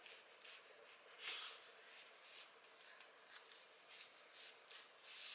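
Near silence: quiet room tone with a few faint, soft rustles.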